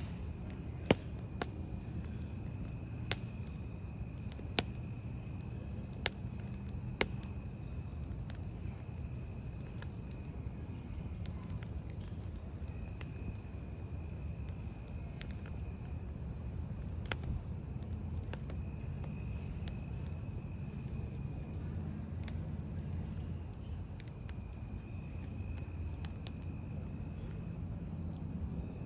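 Crickets trilling steadily, with a campfire crackling: sharp wood pops come in a cluster over the first seven seconds and once more around seventeen seconds, over a low steady noise from the fire.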